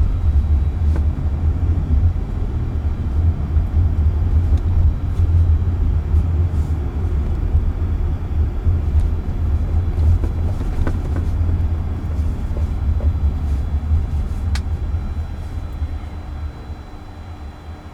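Deep, steady road and tyre rumble inside a moving car's cabin, with a single faint click a little before the end. The rumble fades over the last few seconds.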